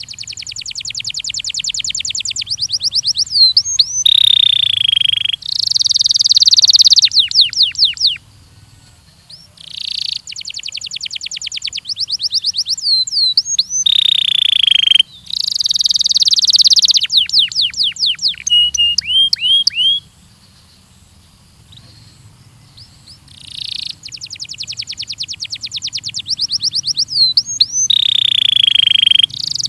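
Belgian canary singing in three long song bouts. Each bout opens with a fast, even trill that grows louder, then drops to a lower falling note and a run of quick downward-slurred notes. Short pauses separate the bouts.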